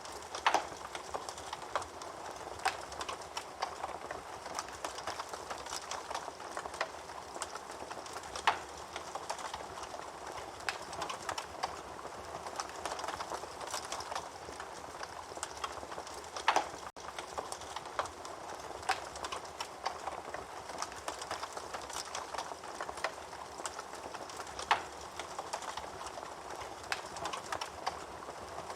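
Wood fire burning in a fireplace, crackling steadily with many small snaps and a few louder pops, the loudest about half a second in, around eight and a half seconds in, and about sixteen and a half seconds in.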